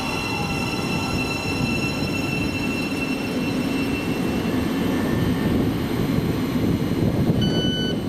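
A train running past with a steady rumble and a high whine that fades away about halfway through. Near the end an electronic beep sounds, the start of a repeating beep.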